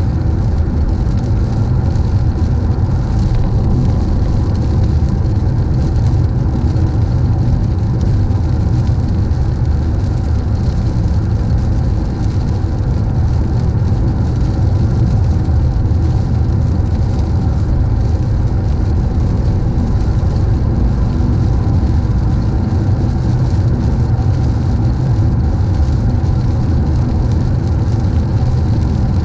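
Steady road noise inside a moving car: a constant low rumble of engine and tyres, with a steady hiss of tyres on a wet road above it.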